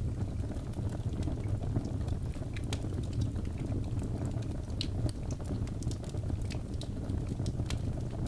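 Wood fire crackling in a fireplace: a steady low rumble of the flames with frequent sharp, irregular pops and crackles.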